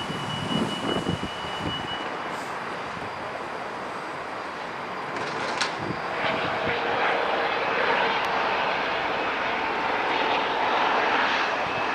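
Jet engines of a British Airways Boeing 787-9, Rolls-Royce Trent 1000s, running as the airliner taxis: a steady rush of air with a thin whine. It grows louder about halfway through.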